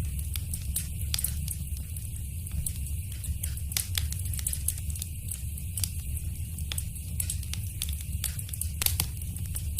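Wood fire crackling in a fireplace: a steady low rumble with many small sharp pops, a couple of louder pops about four seconds in and near the end.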